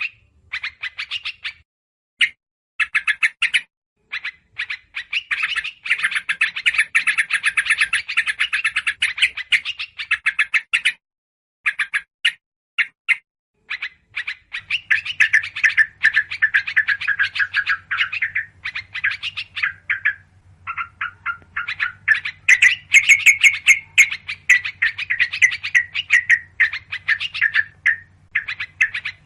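Bird-lure recording of small songbirds chattering excitedly: runs of rapid, high, chirping notes in bursts with short pauses, mainly the noisy agitated chatter of yellow-vented bulbuls mixed with other small birds. A faint low hum comes in about halfway.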